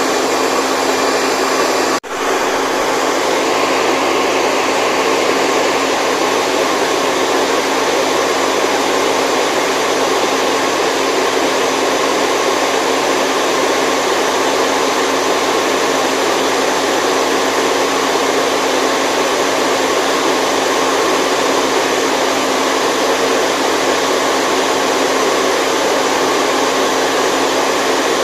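Steady, loud white noise: an even rushing hiss with a few faint steady tones, cut by a brief dropout about two seconds in.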